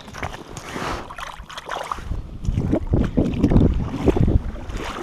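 Shallow water splashing and sloshing, with gusts of wind rumbling on the microphone.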